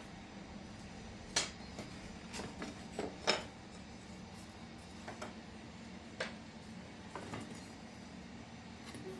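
Scattered sharp clicks and light knocks, about seven, spaced irregularly, as plywood frame pieces are glued and fastened with a pin nailer, over a faint steady hum.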